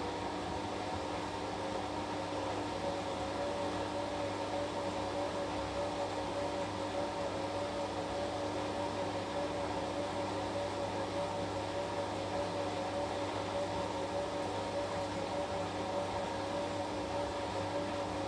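Washing machine running through a wash cycle: a steady mechanical hum with a motor whine that rises slightly about two seconds in and then holds steady with a slight wobble.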